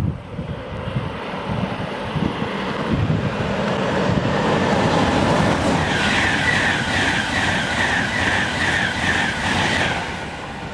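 High-speed express passenger train running through the station at speed, a rushing noise that builds as it approaches and is loudest as the coaches pass, pulsing in a steady rhythm. It dies away near the end, with wind buffeting the microphone at the start.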